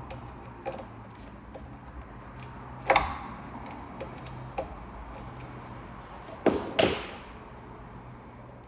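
Scattered sharp clicks and knocks of small hard parts and tools being handled and set down, over a low steady hum. Three knocks stand out, one about three seconds in and two close together about six and a half seconds in, each ringing briefly.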